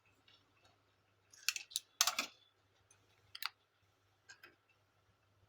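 Wiring connectors on a Canon imageCLASS MF4750 printer being pulled out one by one: a few short plastic clicks and rattles, the loudest cluster about two seconds in, then single clicks later on.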